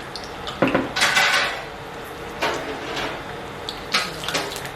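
Metal kitchen pans and utensils clattering: about four separate knocks and scrapes spread over a few seconds.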